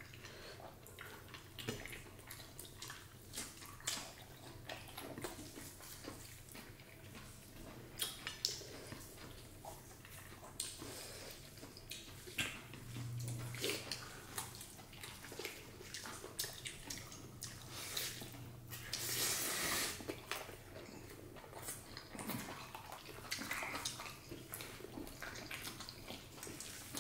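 Faint eating sounds from a meal of rice and dal: scattered small clicks, soft wet squishes and chewing, with an occasional clink of a dish.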